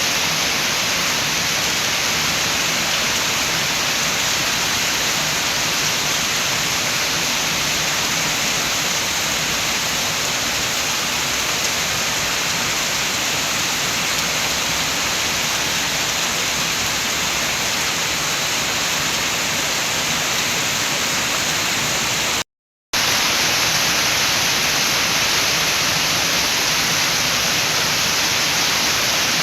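Steady rain with wind, an even continuous hiss. It cuts out to silence for about half a second near the end, then carries on unchanged.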